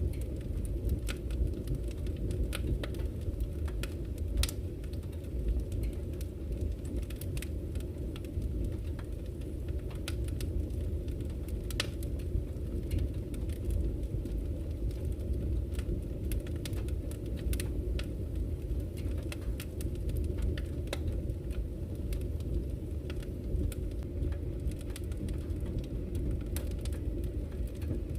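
Wood campfire crackling, with irregular sharp pops and snaps over the steady low rush of flowing river water.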